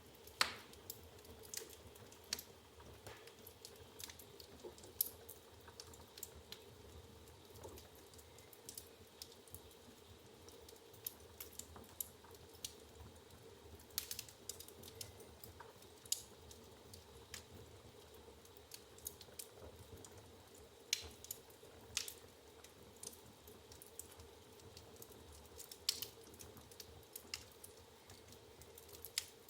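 Wood fire crackling in a fireplace: irregular sharp pops and snaps from the burning logs, a few louder than the rest, over a faint steady hum.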